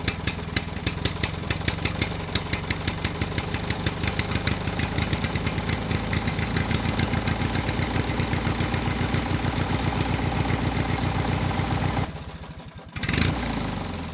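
Small engine running with an even, rapid chugging beat, then cutting out about twelve seconds in, followed by one short burst of sound.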